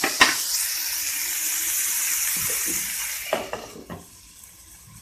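Chopped radish leaves sizzling in hot oil in a frying pan. There is a sharp clink just after the start, and the sizzle fades after about three seconds, with a few knocks from the glass pan lid near the end.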